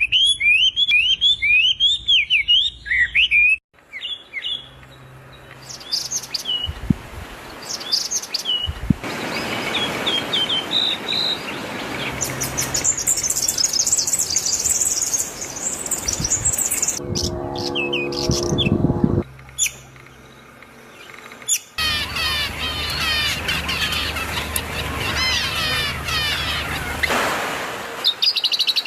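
Sun conures chirping and calling in rapid bursts of short, quickly bending high chirps, with a few quieter stretches between them.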